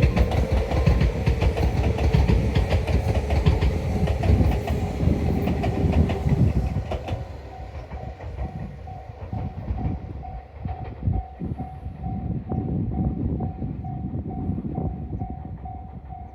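A Tobu Isesaki Line electric train runs past loudly, its wheels clicking rhythmically over the rail joints, then fades away after about seven seconds. As it recedes, a quick, evenly repeating electronic beep, about two to three a second, carries on.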